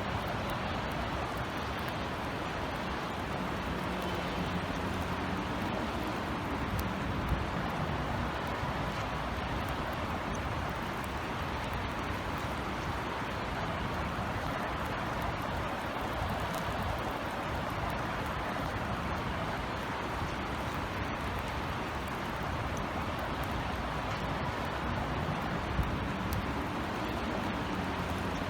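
Steady light rain falling, with scattered drops ticking on hard surfaces, over a low rumble of distant city traffic.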